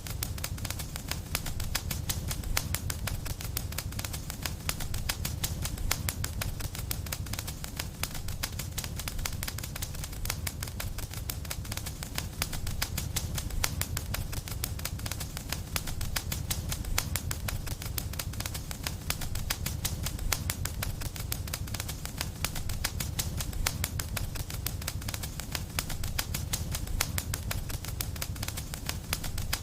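Wood fire crackling steadily in a fireplace: dense, irregular small pops and snaps over a low, steady rumble of the flames.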